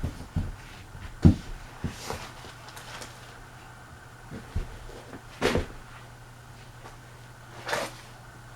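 Sierra ceiling fan running on low speed with a steady motor hum, broken by several irregular knocks and clunks. The sharpest comes about a second in, and a double clunk comes a little past the middle.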